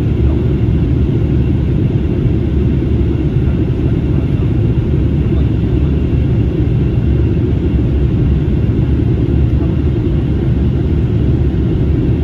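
Steady low cabin roar inside an Airbus A321neo in flight: engine and airflow noise heard through the fuselage, holding even throughout.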